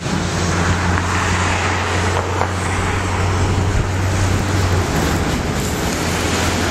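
A motor vehicle's engine running with a steady low hum, under a loud even rushing hiss.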